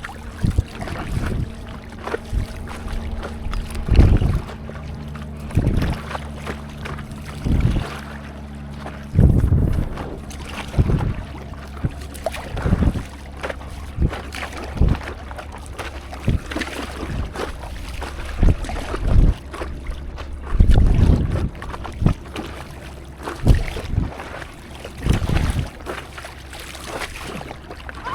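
Stand-up paddleboard paddle strokes in seawater, a splash of the blade about every one and a half to two seconds, with wind on the microphone. A low steady hum runs underneath through the first half.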